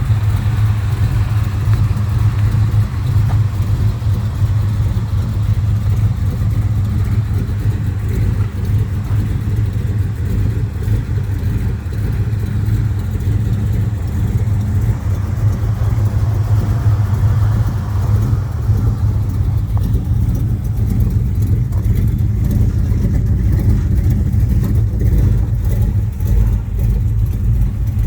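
1970 Chevrolet Chevelle's engine idling steadily with a deep, even rumble.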